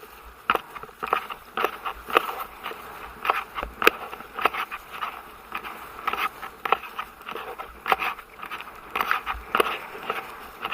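A horse at a canter or gallop: hoofbeats about twice a second, with the horse's breathing in time with its stride.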